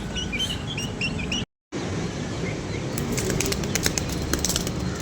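A small bird chirping in a quick run of short, hooked notes, then a dense flurry of sharp clicks and rustles about three seconds in, over a steady low rumble.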